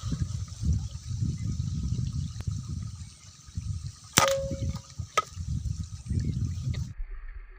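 Air rifle firing a single sharp shot about four seconds in, with a brief ring after it and a smaller click a second later, over a low, uneven rumbling noise.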